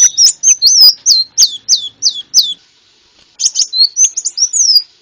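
Sunbird (Indonesian 'konin') song: a run of loud, high whistled notes, each slurring sharply down, about four a second, then after a short pause a quicker twittering phrase. It is the bird's full song played as a lure call.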